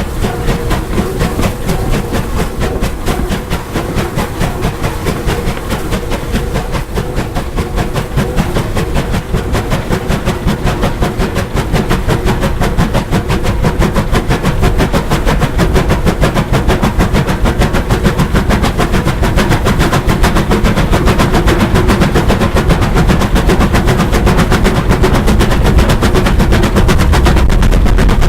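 Bulleid steam locomotive working hard, its exhaust beats coming in a very rapid, even stream and growing steadily louder.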